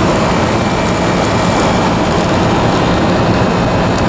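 Vintage air conditioner running steadily with its compressor and fans on: a loud, even rush of air with a faint high steady whine, the unit working continuously under a heavy heat load.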